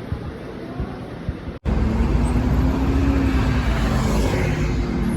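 Road traffic noise. About a second and a half in, an abrupt cut leads to a louder, steady vehicle rumble with a low hum.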